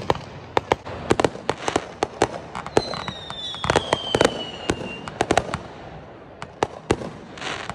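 Fireworks going off: a rapid, irregular string of sharp bangs and crackles. A high whistle starts about three seconds in and falls slowly in pitch for about two seconds.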